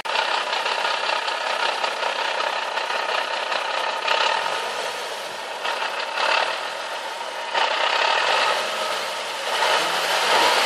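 Nissan 370Z gearbox rattling at idle: a dense metallic chatter over the idling engine that swells and eases a few times. This idle gear rattle set in after a JWT flywheel and clutch kit was fitted.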